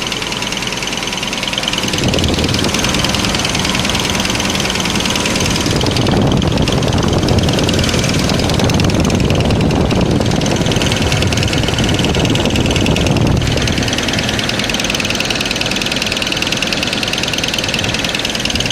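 Audi 100 C4's 2.3-litre AAR inline five-cylinder engine running with a rapid knock, the one the owner is trying to trace. It gets louder and heavier about two seconds in and drops back about two-thirds of the way through.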